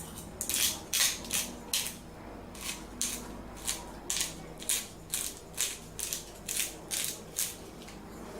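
A hand-twisted spice grinder crushing chicken and steak seasoning, about fifteen short rasping crunches at roughly two a second.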